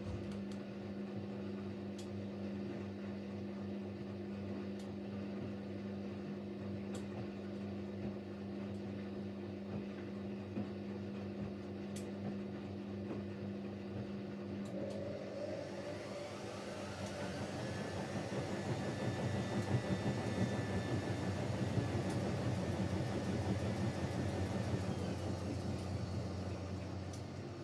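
Siemens Siwamat Plus 574 washing machine running with a steady low hum, then its drum motor starting the first intermediate spin after the rinse. About halfway in, a whine rises steeply and the machine grows louder, holds at speed for several seconds, then winds down near the end.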